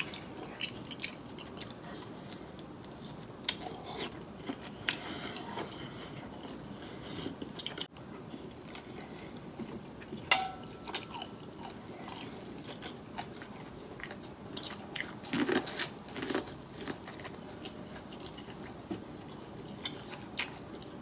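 A man chewing and biting food close to the microphone, with wet mouth sounds and scattered sharp clicks of a fork against a plate.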